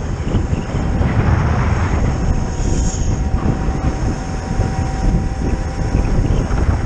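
Zero FX electric motorcycle under way: wind rushing over the microphone with a steady, thin electric-motor whine running beneath it.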